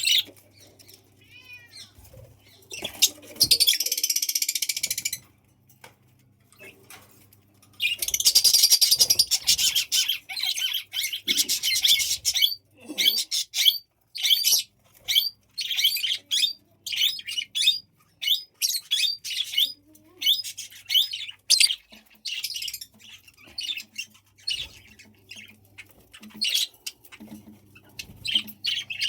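Pet budgerigars chirping and chattering. Two long spells of fast, dense warbling chatter are broken up by many short, sharp chirps.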